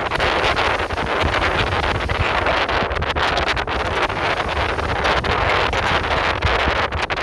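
Wind buffeting the microphone: a loud, continuous rushing noise with a gusty low rumble.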